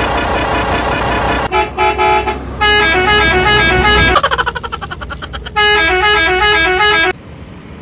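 Multi-tone musical vehicle horn playing short stepping tunes in several loud blasts, with a rapidly pulsing horn sound in the middle.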